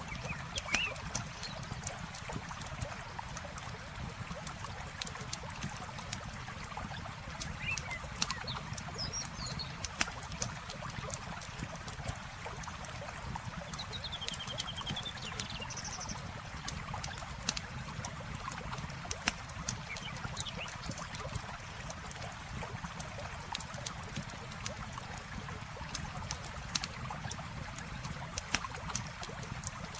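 Campfire crackling with many sharp pops, over a steady wash of flowing water. A few short bird chirps come through now and then.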